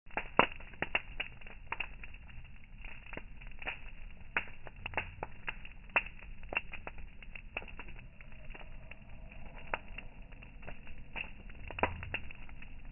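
Campfire crackling: burning wood pops and snaps at an irregular rate of several a second, a few of them sharper and louder, over a faint hiss.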